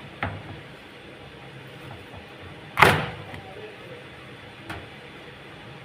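A few knocks: a light one at the start, one loud sharp bang with a short ringing tail about three seconds in, and a faint click near the end.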